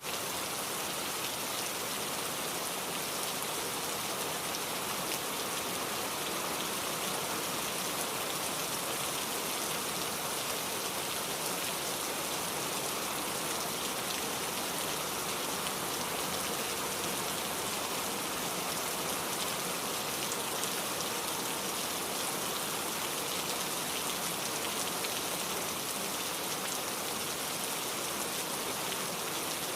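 Steady rain falling, an even hiss of many drops striking a surface, with no change in strength.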